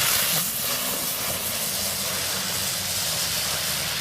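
Firework fountain spraying sparks with a loud, steady hiss, over a low steady hum.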